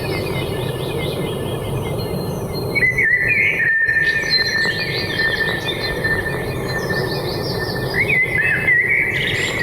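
Forest ambience: many birds chirping over a steady low background noise, with a long, even, high whistling tone from about three seconds in.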